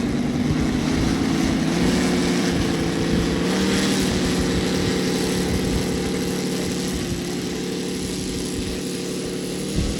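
ASP 400 radial glow engine of an RC Yak 55 running steadily at low throttle, its propeller turning; the pitch steps up slightly about two seconds in and shifts a little later on.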